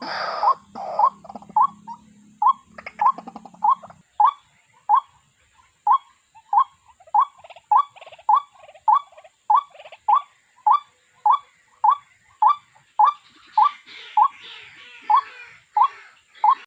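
A bird calling over and over: one short note rising in pitch, repeated at an even pace of about one and a half to two a second.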